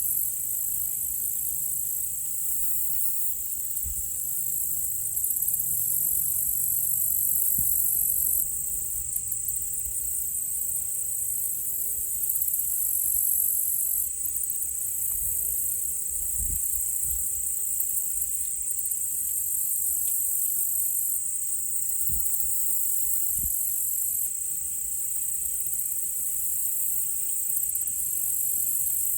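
Steady high-pitched chorus of crickets and katydids, pulsing without a break. A faint low drone of a distant small propeller plane fades out in the first several seconds, and a few dull, distant low thumps come through later.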